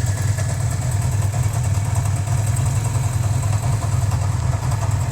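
Kawasaki Zephyr 550's air-cooled inline-four engine idling steadily while it warms up.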